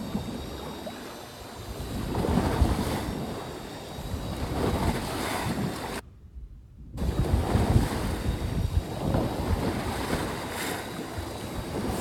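Wind buffeting the microphone over the wash of sea water aboard a small fishing boat, surging up and down; the sound cuts out for about a second around six seconds in.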